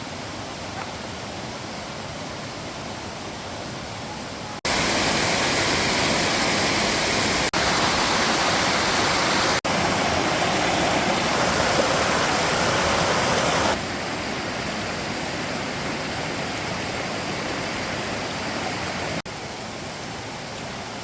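Steady rush of flowing stream water. It changes abruptly in loudness several times, loudest from about 5 to 14 seconds in.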